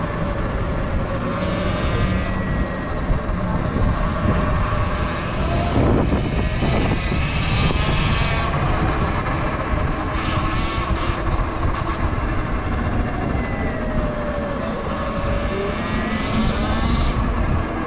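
Sur Ron electric dirt bike's motor whining, its pitch rising and falling as the bike speeds up and slows, over heavy wind rumble on the microphone. A couple of brief knocks about six seconds in.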